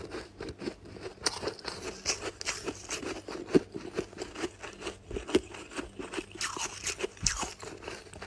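Chunks of freezer frost being bitten and chewed close to the microphone: a dense, irregular run of crisp icy crunches, with a few louder bites among them.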